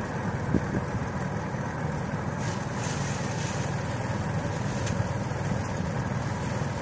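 Engine of a rice threshing machine running steadily, with a low drone and a couple of light knocks and a brief hiss of threshed material over it.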